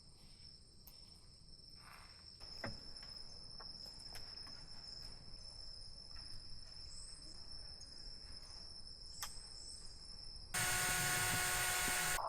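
Insect chorus: a steady, high-pitched trill with a few faint clicks. Near the end, a sudden loud noise with a hiss and several steady tones cuts in and lasts under two seconds.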